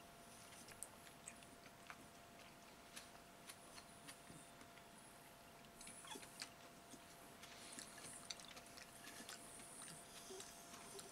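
Faint eating sounds: wet chewing and small mouth clicks as a fresh tomato is bitten and chewed, with scattered light clicks.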